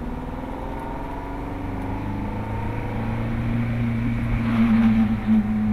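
Ferrari F430's V8 engine heard from the open cabin while driving. The engine note eases down slightly at first, then holds steady and gets louder near the end.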